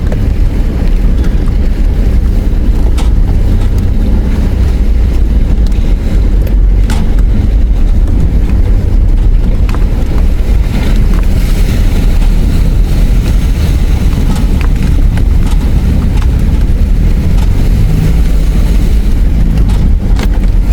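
A 4WD driving slowly over a rough dirt track, heard from inside the cabin: a steady low rumble of engine and tyres, with a few scattered knocks and rattles from the bumps.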